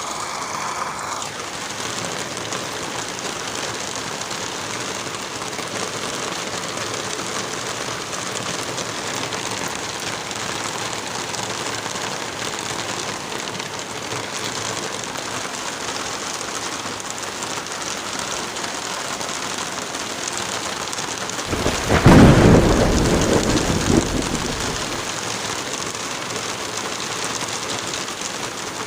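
Steady hiss of light rain and wind in a forest. About three quarters of the way through, a loud, deep rumble rises suddenly and fades over about three seconds.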